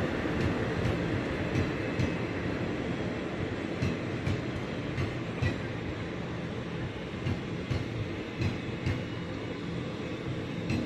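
Train running on the track: a continuous rumble with the wheels clacking over rail joints in a quick, uneven run of knocks, easing off a little as it goes.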